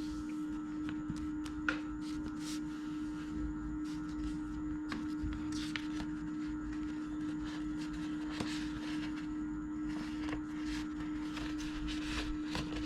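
Paper being folded and creased by hand: scattered short crinkles and taps, one sharper tick nearly two seconds in, over a steady low hum.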